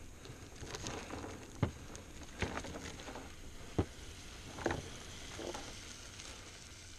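Chicken sizzling as it cooks over a campfire, a steady frying hiss broken by four sharp clicks or pops.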